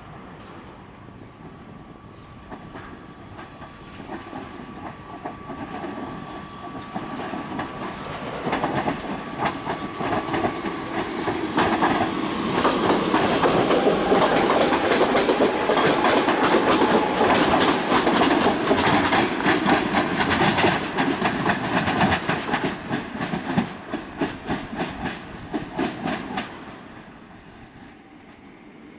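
EN63A electric multiple unit passing through a station. It comes in from a distance with a faint steady whine and grows loud about a third of the way in. Its wheels clatter rhythmically over the rail joints as it goes by, and it fades away near the end.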